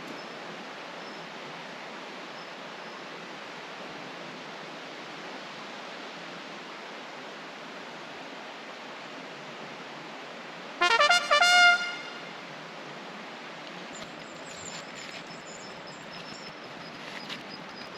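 Steady rush of a flowing stream. About two-thirds of the way through, a loud pitched call rings out for about a second, and faint high chirps follow near the end.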